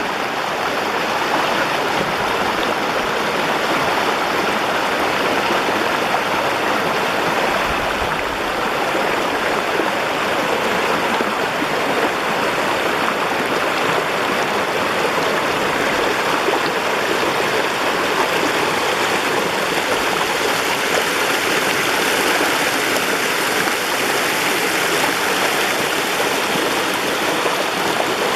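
Waterfall rushing: a steady, loud wash of falling and running water.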